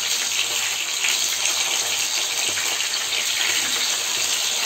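Rohu fish steaks shallow-frying in mustard oil in a nonstick wok, with a steady, dense sizzle of hot oil as the pieces are turned over with a spatula.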